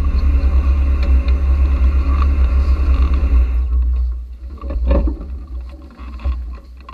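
Caterham sports car engine idling with a loud, low, uneven rumble, picked up by an in-car microphone, then switched off about three and a half seconds in. A brief rustle or knock follows about a second later.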